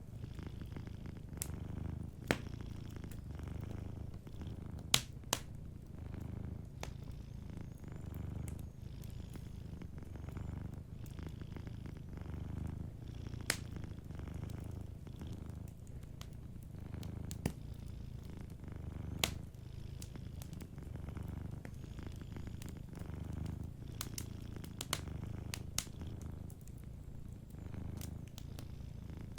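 Domestic cat purring steadily, the low purr swelling and easing with each breath every second or two. Sharp pops and crackles of a wood fire burning in a fireplace are scattered throughout.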